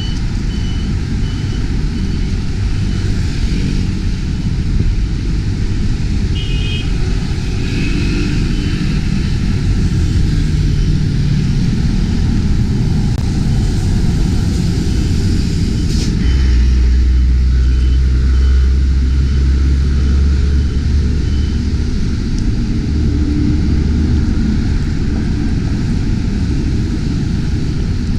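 Outdoor city ambience: a steady low rumble with a series of short, evenly spaced high electronic beeps, about two a second, near the start and again partway through.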